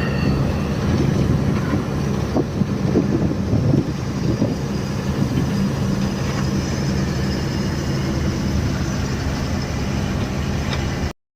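Inside a moving lorry's cab: the diesel engine runs steadily as a low hum under road and cab noise, with a few short knocks about two to four seconds in. The sound cuts off abruptly near the end.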